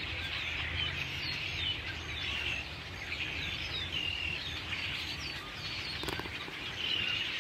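A big flock of migrating songbirds calling all at once, a continuous cacophony of many short, overlapping chirps and slurred notes. The calls sound like red-winged blackbirds, though European starlings imitating them and house sparrows may be mixed in.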